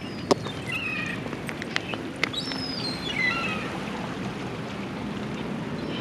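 Steady harbourside background noise with a couple of sharp knocks, and two short runs of high, squeaky calls that fall in pitch, about a second in and again around the middle.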